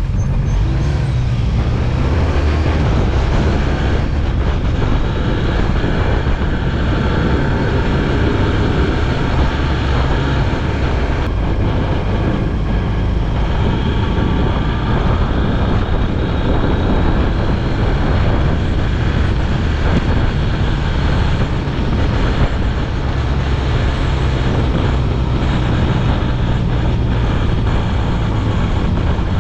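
Motorcycle riding at steady road speed, its engine running under a heavy, even rush of wind and road noise.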